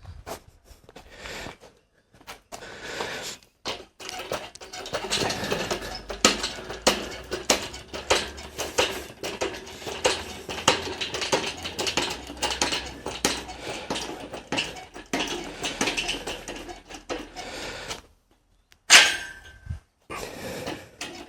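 MIG welding on steel tube: a dense, irregular arc crackle over a low welder hum, starting about four seconds in and stopping about four seconds before the end. It is followed by a single sharp metallic clank with a short ring.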